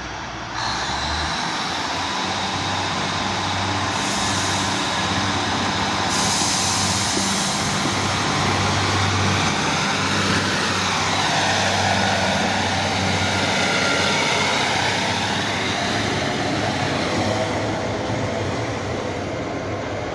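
Class 150 Sprinter diesel multiple unit pulling away, its underfloor diesel engines opening up under power. The engine note jumps up sharply about half a second in and holds steady, with a sweeping change in pitch about halfway through.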